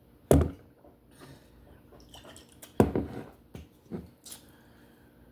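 Hot sauce bottle handled and shaken over food: two sharp knocks about two and a half seconds apart, with softer clicks and wet squishing sounds between and a couple of lighter knocks near the end.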